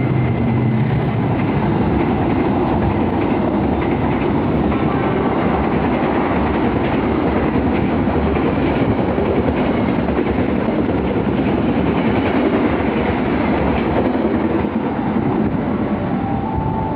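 A train passing, its wheels running over the rails in a loud, steady rumble and clatter that eases slightly near the end.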